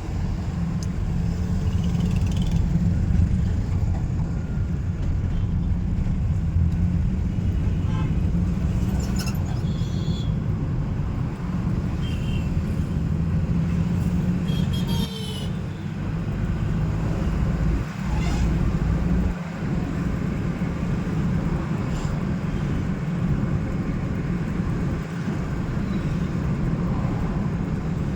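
A car driving through city traffic with a steady low rumble of engine and road noise. Other vehicles sound short horn toots several times, clustered about a third of the way in and again around the middle.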